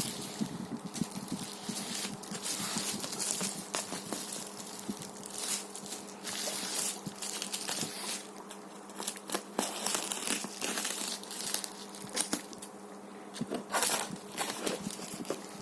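Packaging being handled and unwrapped: plastic and paper crinkling and rustling in irregular bursts with sharp crackles. A steady low hum runs underneath.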